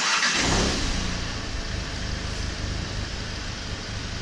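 Car abruptly starts, with a rush of noise that falls in pitch over the first second, then runs with a steady engine hum.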